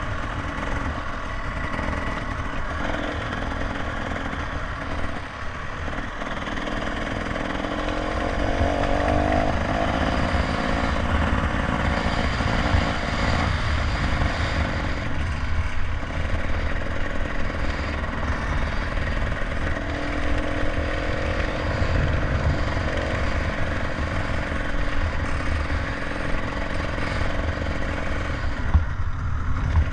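Motorcycle engine running under way, its pitch shifting as it speeds up and eases off, with a steady rush of wind noise.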